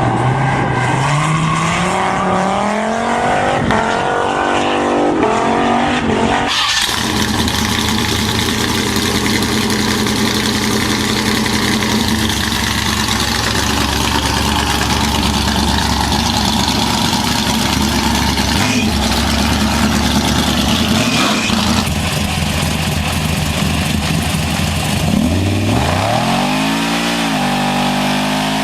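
Engines of home-modified vehicles running and revving, the pitch climbing as they rev at the start and again near the end. The sound changes abruptly about six seconds in.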